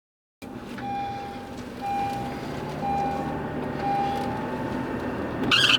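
Electronic beeping, four evenly spaced beeps about one a second at one steady pitch, over the steady rumble of a vehicle. It starts suddenly about half a second in, after a moment of dead silence.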